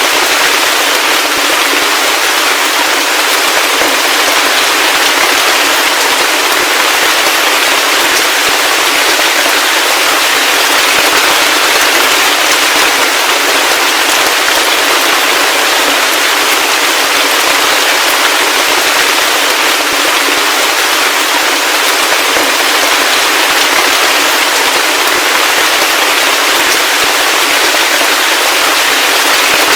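Heavy rain falling steadily: a dense, even, crackling patter of drops with no deep rumble beneath it.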